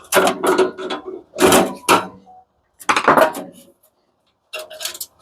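Metal parts of an industrial coffee machine clanking and scraping as they are handled and pulled apart, in about four separate bursts with short gaps between them.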